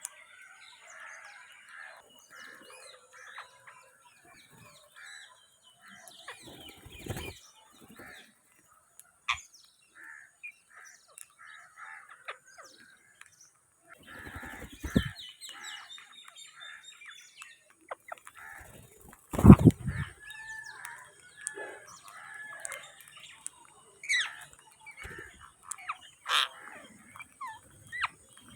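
Indian ringneck parakeets chattering and calling in short, repeated notes throughout. A few dull thumps cut through, the loudest about two-thirds of the way in.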